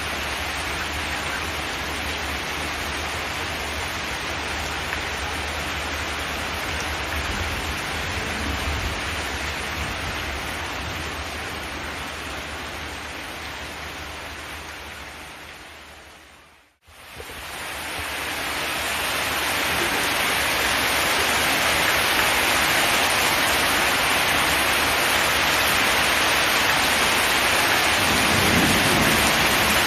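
Steady rain falling on a zinc metal roof. About halfway through it fades out to a moment of silence, then fades back in a little louder and brighter.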